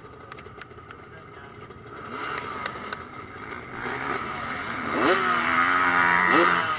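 Motocross motorcycle engines approaching and accelerating, revving up in repeated rising sweeps as they shift through the gears; fainter at first, getting loud from about five seconds in.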